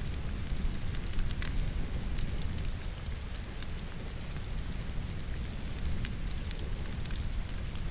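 Steady rainfall mixed with a wood fire burning in a fireplace: a continuous low rumble and hiss of rain, with scattered sharp crackles and pops from the burning logs.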